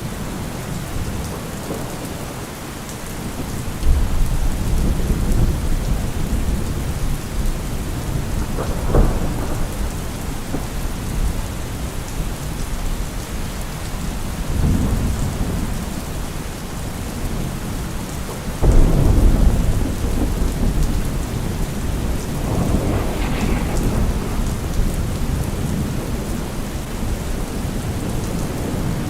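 Steady heavy rain with repeated rolls of thunder: deep rumbles swell up about 4, 9, 15, 19 and 23 seconds in, the ones near 4 and 19 seconds breaking in suddenly and loudest.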